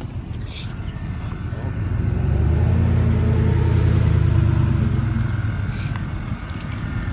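A motor vehicle's engine rumbling as it passes close by: it grows louder about two seconds in and fades again near the end.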